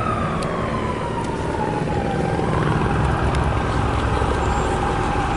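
Low traffic rumble with a siren-like tone that slides down in pitch over about two seconds and then holds steady.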